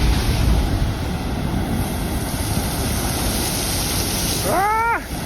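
Ocean surf rumbling and breaking, with wind buffeting the microphone. About four and a half seconds in, a brief high-pitched cry rises and falls.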